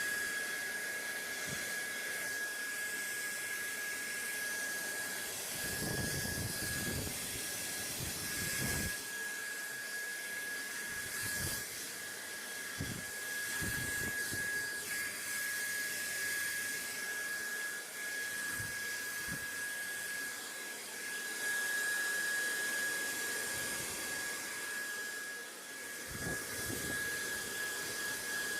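Steady white-noise hiss with a constant thin high whine running through it, and a few soft low rumbles: about 6 seconds in, again near the middle and near the end.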